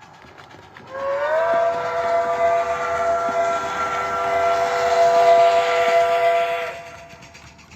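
Steam locomotive whistle sounding one long blast of several tones together. It slides up in pitch as it opens about a second in, holds steady, and cuts off near the end.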